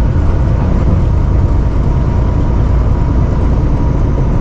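Steady low drone of a semi-truck's diesel engine and road noise inside the cab while driving, with a faint steady whine over it.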